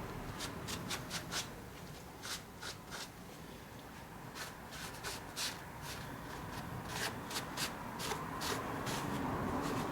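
Scattered light clicks and rubbing from hand work on a 4A-GE engine while its oil pan is being removed.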